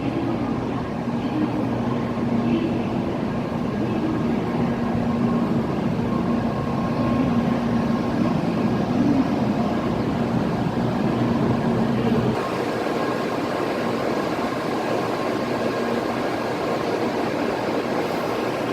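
N700-series Shinkansen train running out of the station: a steady rush of train noise with a low hum that wavers in pitch. About twelve seconds in the sound changes abruptly, the low hum dropping away and leaving a thinner steady rush.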